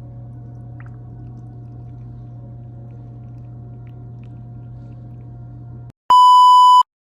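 A steady low electrical hum with a faint higher tone runs for about six seconds and stops suddenly. A moment later comes a single loud, high electronic beep lasting under a second.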